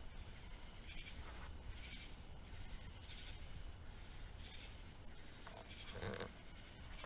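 Faint insect chirping: short high-pitched pulses repeating every half second to a second over a low background hum.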